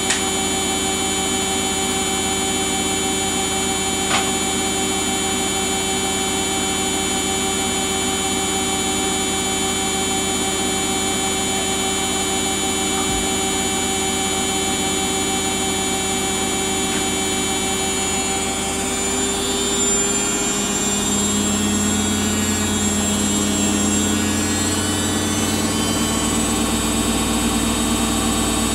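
Samsung washing machine running its Daily Wash 40 programme: a steady motor whine of several held tones that changes about two-thirds of the way through, as the drum's motor shifts speed.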